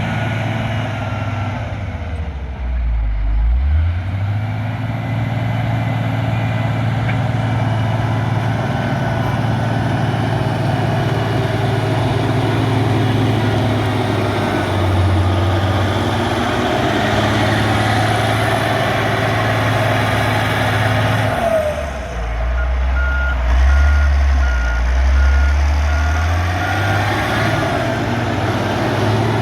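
Caterpillar 140G motor grader's diesel engine running steadily under load, its pitch dropping and shifting briefly a few seconds in and again past the twenty-second mark. Near the end a reversing alarm beeps repeatedly over the engine.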